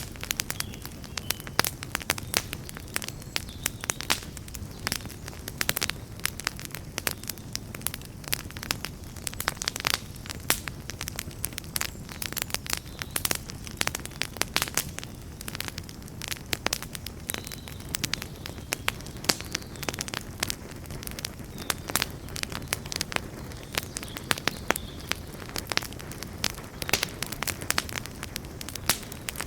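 Wood campfire crackling: dense, irregular pops and snaps over a steady low rush of burning.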